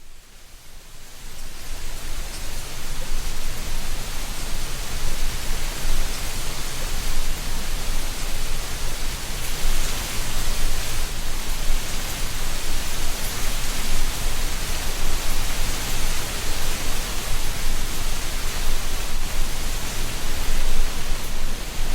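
Autumn wind blowing steadily through treetops and rustling dry leaves, a continuous rushing hiss with a low rumble underneath. It fades in over the first couple of seconds.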